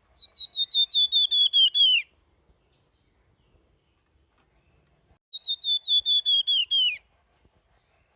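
A flamboyan songbird singing two fluting phrases. Each is a quick run of about ten whistled notes on one high pitch that slide downward at the close, about two seconds long. The second phrase comes about three seconds after the first.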